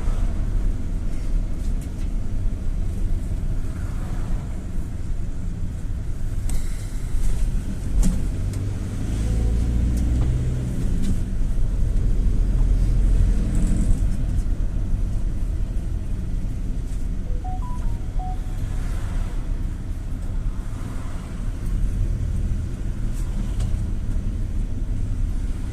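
A GAZ Gazelle City minibus driving, heard from inside: a steady low engine and road rumble with scattered light clicks and rattles.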